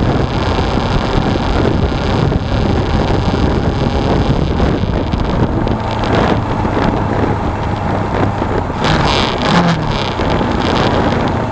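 Wind rushing over an action camera's microphone on a moving Suzuki V-Strom 250 motorcycle, with its parallel-twin engine running steadily underneath. A brief burst of louder hiss comes about nine seconds in.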